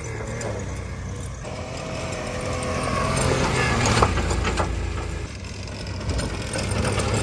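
Japanese mini truck's small engine running as the truck is driven, its pitch and loudness rising over the first few seconds, easing off, then picking up again near the end. A sharp knock comes about four seconds in.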